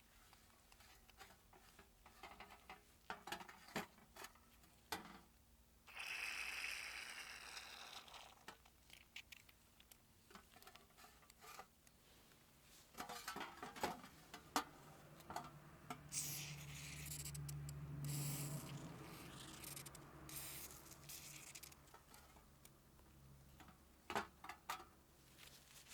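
Small hand-work noises: scattered clicks, taps and scrapes of parts and tools being handled, with a hiss lasting about two seconds near the start and a longer stretch of hiss over a low hum after the middle.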